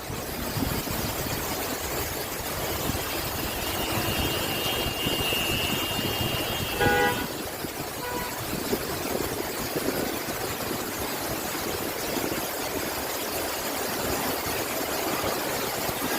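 Road traffic as a steady noisy wash, with a high-pitched tone held for about three seconds from roughly four to seven seconds in, followed by a few short, lower notes.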